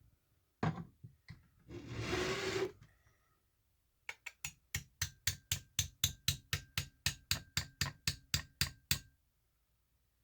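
A hammer tapping steadily at a rock to split it open, about four even blows a second for some five seconds, with a faint ring under the strikes. Before that there are a few single knocks and a short scrape.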